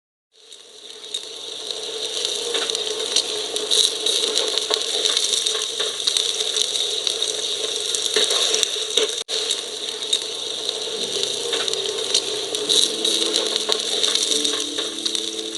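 Food frying in a pan: a steady sizzle with scattered crackles and pops. Soft music comes in near the end.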